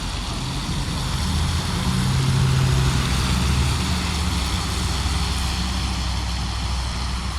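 A motor vehicle passes on the road. Its engine hum and tyre noise build to their loudest about two to three seconds in, then ease off.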